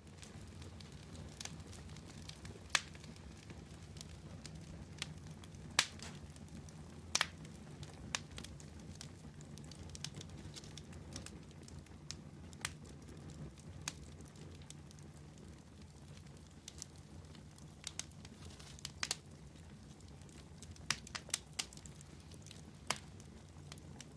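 Campfire burning in the open: wood crackling and popping with irregular sharp snaps over a steady low rumble of the flames.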